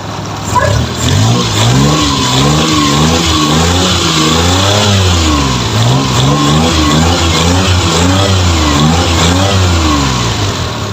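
Suzuki F6A three-cylinder carburetted engine being blipped again and again, its note rising and falling with each rev, to test it after the carburettor's air-mixture screw was set three turns out to cure hard starting.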